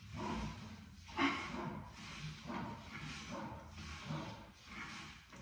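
A man breathing hard in quick, noisy puffs, winded after a heavy lifting set.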